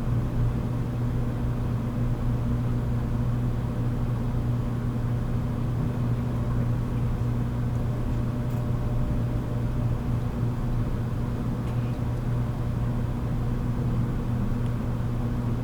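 Running sound inside a motor car of a JR Kyushu 783 series electric train underway: a steady low hum with a higher overtone above it, over continuous wheel and rail noise.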